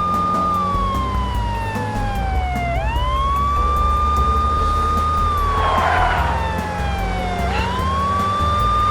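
Police car siren wailing. Each cycle rises quickly, holds a high tone, then slides slowly down, repeating about every five seconds over a low steady rumble, with a brief rushing noise about six seconds in.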